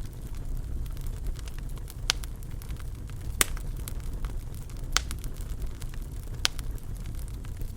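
Fire in a fireplace crackling: a steady low rumble of flames with scattered small snaps and a few sharp, louder pops spread through.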